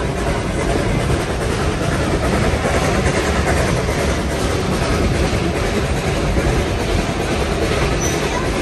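A train running along the track: steady noise of the carriage wheels on the rails.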